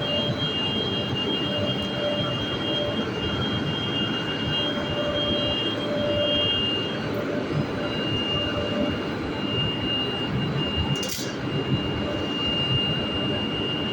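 Enclosed belt conveyor running: a steady mechanical whir with a thin high whine that drops out and comes back. A brief hiss about eleven seconds in.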